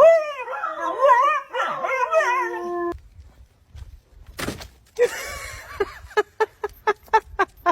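A dog howling and whining in wavering cries that rise and fall, for about three seconds. After a short gap come a sharp sound and then a quick run of short sharp sounds, about three a second.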